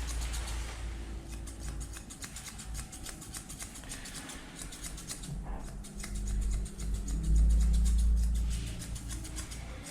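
Grooming scissors snipping through a Pomeranian's coat in quick repeated clicks, over a low rumble that swells loudest about seven to eight and a half seconds in.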